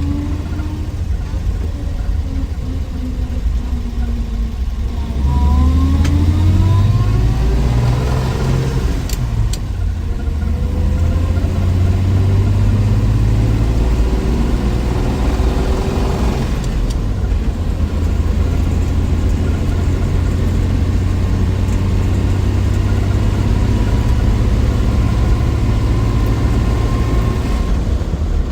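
Willys Wagon's 230 Tornado overhead-cam inline-six running on the road. It revs up with rising pitch a few seconds in, then settles into a steady cruise.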